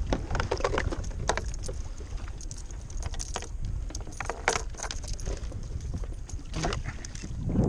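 Irregular metallic clicks and jingles of fishing gear handled on a kayak while a small cobia is brought in, over a low wind rumble on the microphone.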